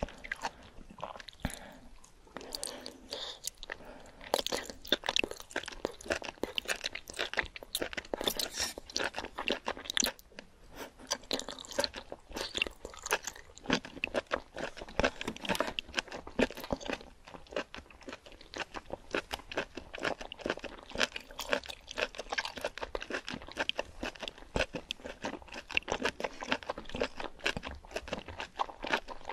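Close-miked mouth chewing of octopus tentacles and enoki mushrooms in spicy red sauce: a dense run of quick clicks and smacks, with a short lull about ten seconds in.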